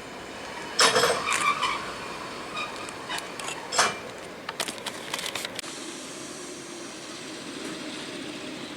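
Railway carriages at low speed: a loud sharp clank about a second in with a brief squeal, another knock a few seconds later, then a quick run of lighter clicks before a steady low rumble.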